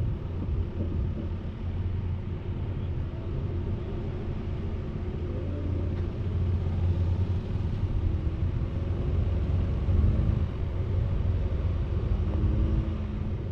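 Motor vehicle driving: a steady low rumble of engine and road noise, with the engine's hum shifting up and down in pitch a few times.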